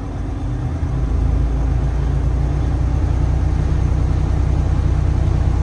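Detroit Diesel DD15 inline-six diesel in a Freightliner Cascadia rising from idle about a second in, then running steadily at a raised speed: the engine is being held at high idle for a parked DPF regeneration.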